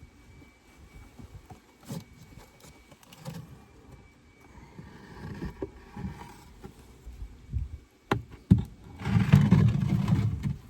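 Wooden beehive parts being worked: scattered light clicks and knocks, two sharp knocks about eight seconds in, then a loud scraping rub lasting about a second and a half near the end.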